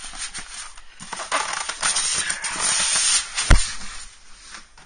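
Drill press packing being handled and pulled out of its box: crackling, crinkling and scraping, with one heavy thump about three and a half seconds in as a part is set down.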